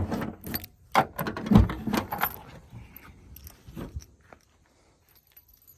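Keys jangling with a run of clicks and knocks as a Maruti Suzuki Omni's rear hatch is unlocked and opened, including one heavier thump about one and a half seconds in; it then goes quiet.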